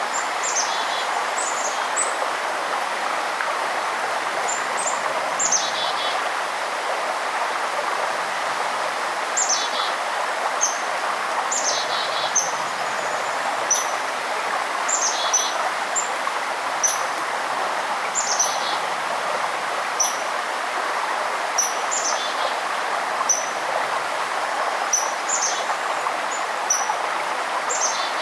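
Steady rush of running water in a forest, with small songbirds calling over it: short high chirps and quick falling notes, repeated every second or two.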